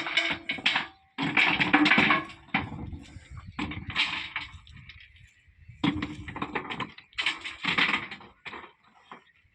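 Stone crashing and clattering in a run of loud bursts with sharp starts, about five or six in all, with a pause in the middle.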